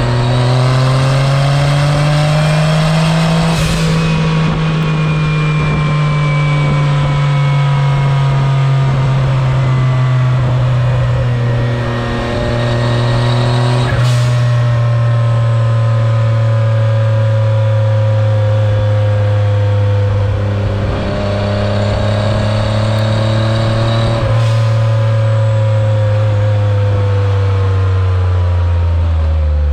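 Autozam AZ-1's small turbocharged three-cylinder engine, exhaust running through a straight downpipe with no catalytic converter, pulling while driving. Its note climbs for the first few seconds, then drops suddenly with a gear change, then rises and falls slowly with the throttle, with brief breaks at about a quarter and two thirds of the way in. It falls off at the end.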